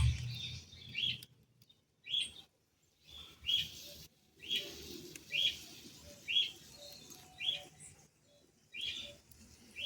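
A bird chirping, one short rising chirp about once a second.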